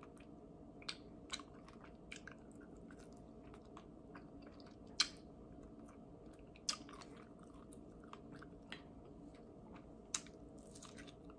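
Quiet chewing of crispy chicken wings eaten off the bone, with a few short, sharp crunches: the clearest about five seconds in, then near seven and ten seconds.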